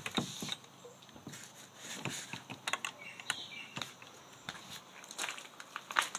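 Irregular footsteps crunching and rustling through dry leaves and twigs, with scattered sharp snaps, a couple of them louder near the start and near the end.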